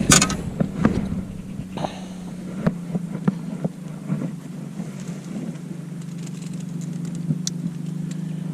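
A motor's steady low drone that settles into an even hum after a few seconds, with scattered knocks and clicks of handling over the first few seconds.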